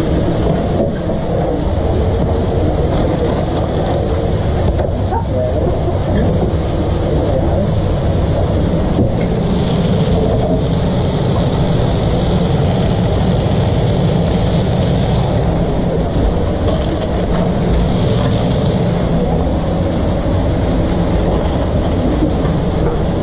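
Steady running noise of food-truck kitchen equipment, with the sound heavy in the low end and a faint steady hiss above it; faint voices may be mixed in.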